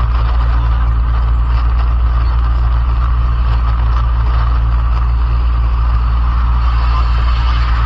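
A motor vehicle running with a steady, loud, low engine drone and noise that does not change.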